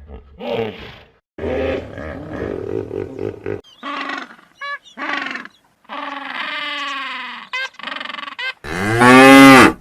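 A string of separate animal calls in quick succession, among them cattle mooing. The loudest is a long moo near the end.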